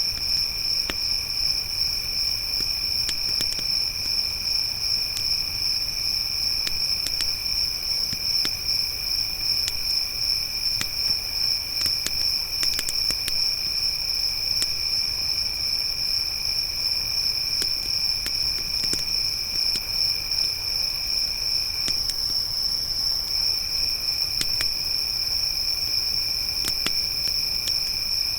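Crickets chirping continuously: one loud high-pitched trill, and a second, lower trill that breaks off for about a second roughly three-quarters of the way through. Sparse faint crackles of a wood campfire pop through now and then.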